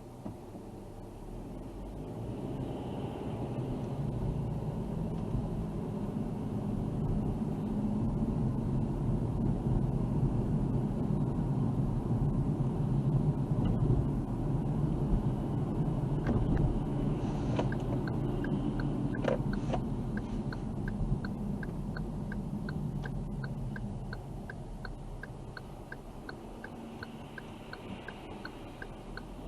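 Car cabin road noise, a low rumble that builds as the car gathers speed and eases off near the end. About halfway through, a turn-signal indicator starts ticking about twice a second.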